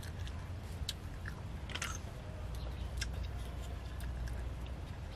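A person chewing boiled snail meat, with scattered small clicks over a low steady hum.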